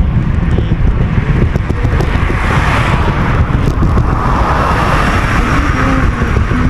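Wind buffeting the microphone as a heavy, steady low rumble while riding, with a broad road-noise hiss that swells and fades between about two and five seconds in.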